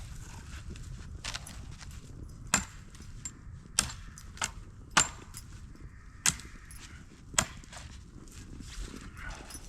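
Firewood being chopped: about six sharp wooden knocks at uneven intervals of roughly a second, each with a brief ring.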